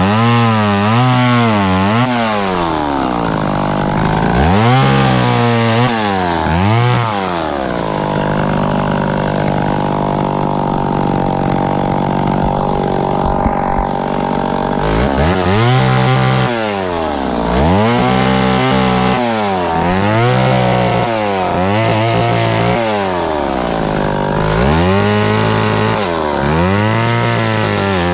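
Vintage two-stroke chainsaw running, its engine pitch rising and falling over and over as it is worked. A stretch of several seconds in the middle runs at a steady pitch.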